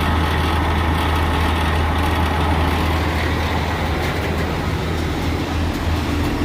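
Heavy diesel engine running steadily at low speed, with a deep, even hum.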